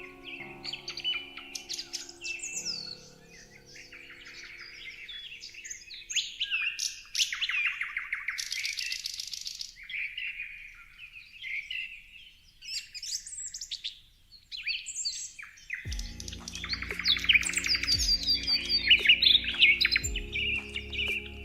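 Several songbirds chirping and trilling, many quick high notes overlapping, over soft background music. The music's low held tones fade out a few seconds in and come back more strongly near the end.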